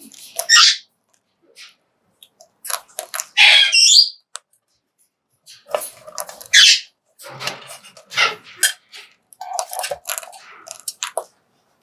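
Major Mitchell's cockatoo giving several short squawks and chirps in separate bursts, with short clicks between them.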